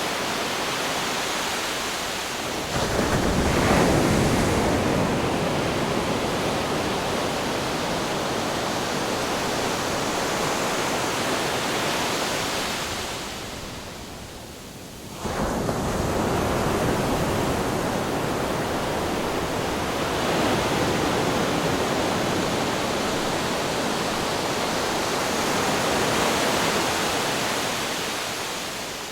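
Ocean waves crashing against rocks in a continuous rush of surf. A wave breaks and swells about three seconds in, and after a short lull another hits suddenly about fifteen seconds in.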